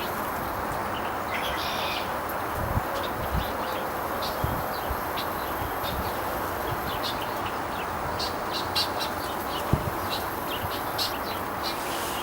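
Small birds chirping in short, scattered calls over a steady background hiss, with a few low thumps.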